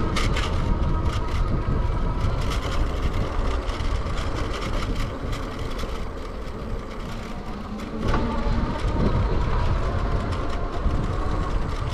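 Wind buffeting the microphone and tyre rumble from an electric bike riding over a bumpy path, with a faint steady whine from the bike's motor and frequent small knocks. It eases off for a couple of seconds past the middle, then comes back louder suddenly.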